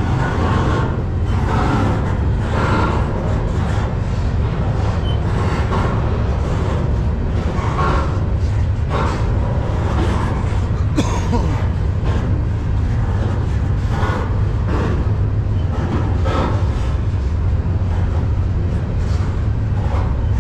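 Steady low rumble of a moving freight train, with irregular rattles and clanks about once a second.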